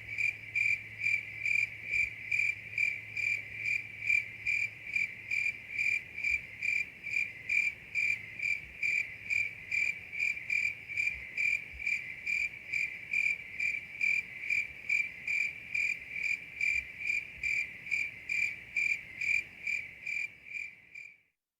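Cricket chirping steadily, about two and a half high chirps a second, fading out near the end.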